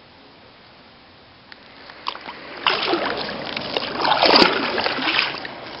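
Kayak paddle strokes splashing and dripping in lake water. The splashing starts faintly about a second and a half in and is loud for the second half.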